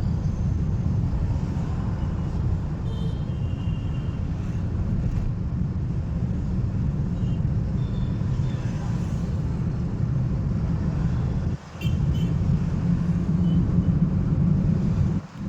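Steady low rumble of a car driving on the road, engine and tyre noise together, that drops out briefly twice, once about twelve seconds in and again near the end.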